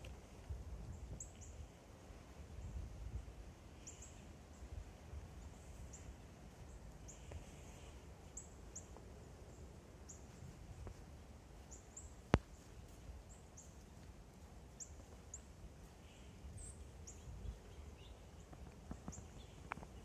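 Faint, high, short bird chirps repeating every second or so over a low rumble, with one sharp click about twelve seconds in.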